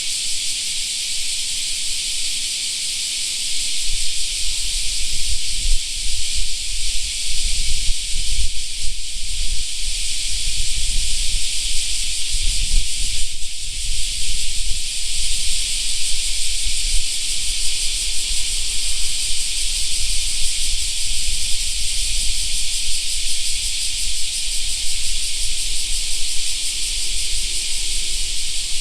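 A dense chorus of cicadas: a steady, loud high-pitched drone. From about four seconds in, a low rumble sits underneath it.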